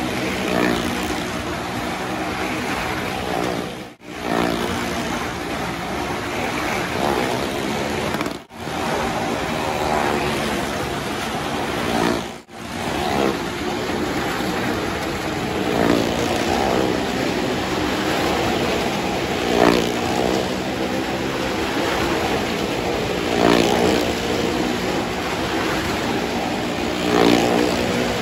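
Small car's engine running hard as it circles the vertical wooden wall of a well-of-death stunt drum, the engine note swelling about every four seconds as the car comes round. The sound breaks off sharply for a moment three times in the first half.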